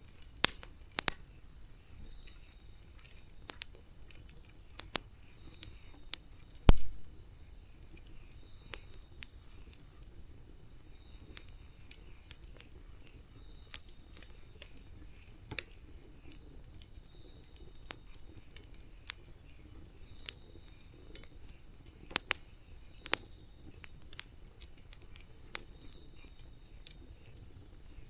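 Wood campfire crackling: irregular sharp pops and snaps over a low steady hiss, with one loud pop about seven seconds in.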